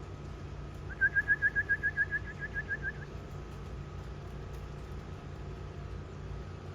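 A quick whistled trill of about fourteen short rising chirps over two seconds, fading toward the end, over a steady low hum.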